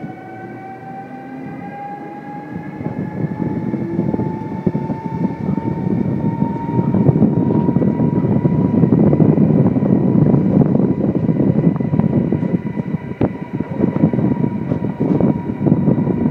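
Electric train accelerating, heard from on board. Its traction motors give a whine that rises steadily in pitch and then levels off, while the rumble of the wheels on the rails grows louder. A few sharp clacks come from the wheels crossing rail joints and points.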